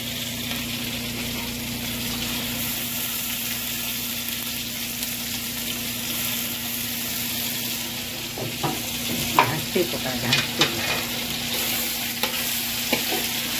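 Sliced onions and ginger-garlic paste sizzling in hot oil in a large aluminium kadai, a steady hiss, while a steel spatula stirs them; in the second half the spatula scrapes and knocks against the pan several times.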